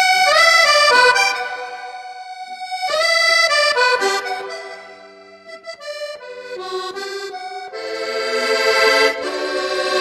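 Accordion music: a lively tune of held, reedy notes stepping up and down, swelling in places.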